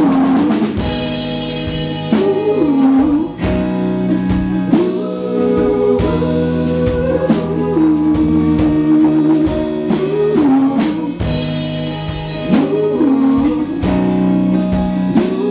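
Live band playing an instrumental passage: a lead guitar melody with bent, gliding notes over a steady drum kit beat.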